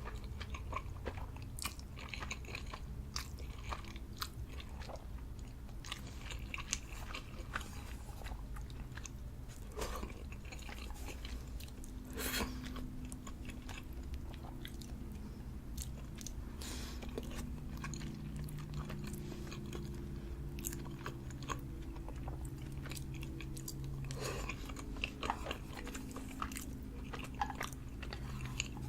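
Close-miked chewing and biting of Samyang instant ramen noodles, a steady run of small irregular wet clicks and smacks.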